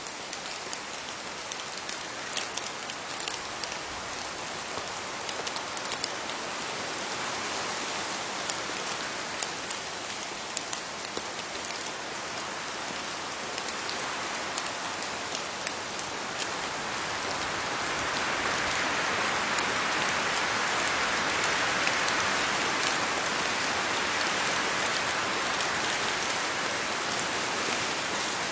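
Steady rain falling on leaves: an even hiss with many separate drops pattering, swelling a little louder about two-thirds of the way through.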